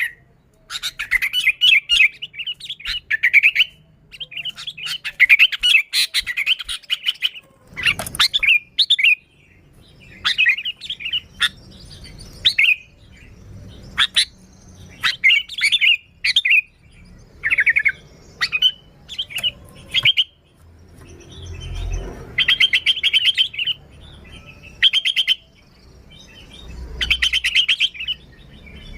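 Sooty-headed bulbul (kutilang) singing energetically: short bursts of rapid, chattering and bubbling notes, repeated again and again with brief pauses between phrases.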